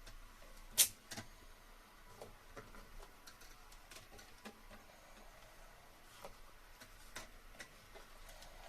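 A few scattered light clicks and taps, the sharpest one about a second in.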